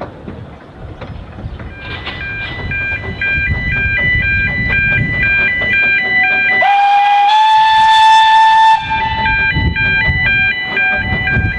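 Narrow-gauge steam locomotive whistle: one blast of about two seconds in the middle, over the low rumble of the train running. Music plays alongside.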